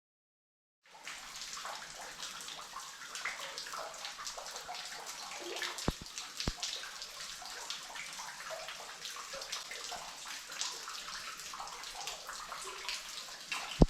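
Water splashing and trickling in a flooded mine passage: many small splashes in a steady run, with two sharp knocks about six seconds in.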